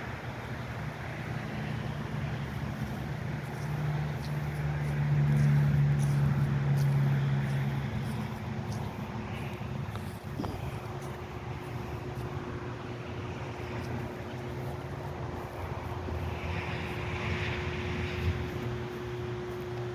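A steady low engine hum that grows louder about five seconds in and eases off after about eight seconds.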